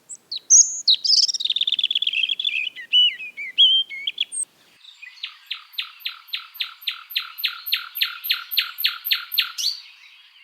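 Songbird singing: a fast run of notes falling in pitch for about four seconds, then a steady series of short, evenly repeated notes, about three a second.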